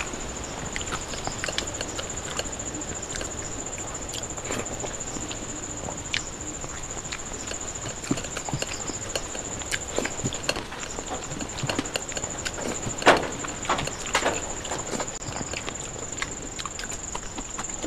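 Close-up wet chewing and lip-smacking of a person eating rice and curry by hand, with fingers squelching through the rice on a steel plate: a steady run of small clicks, busier in the second half. A steady high-pitched whine runs underneath, dropping out briefly a little past halfway.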